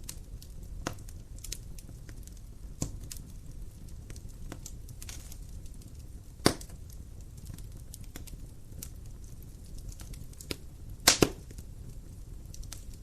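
Wood fire crackling in a fireplace: scattered sharp pops and snaps over a low, steady rumble, with a loud pop about six and a half seconds in and a quick double pop near eleven seconds.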